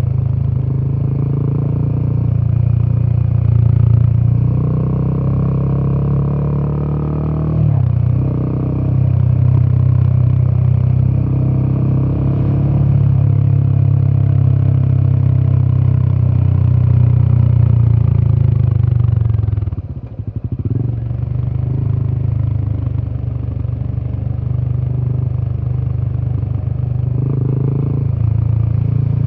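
Royal Enfield Himalayan 450's 452 cc single-cylinder Sherpa engine running under way, a deep, bassy exhaust note. The note dips briefly about a quarter of the way in and falls away more sharply about two-thirds in before picking up again, as the throttle is eased off and reopened.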